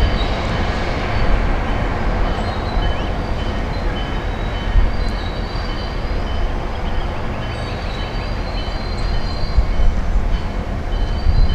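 Train rolling on rails: a steady rumble with faint high-pitched wheel squeal coming and going.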